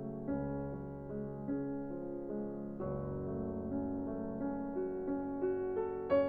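Background piano music: a gentle melody of single notes over soft chords.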